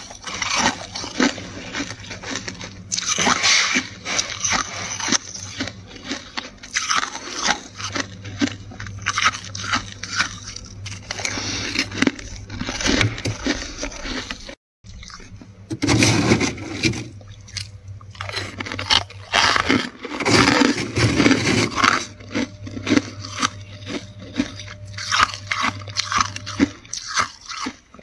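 Flaky freezer frost being bitten and chewed close to the microphone: dense, irregular crunching throughout, broken by a brief silent gap about halfway through.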